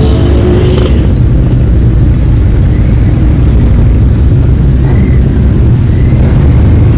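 A stream of motorcycles riding past, a loud low engine rumble, with one engine revving up in the first second.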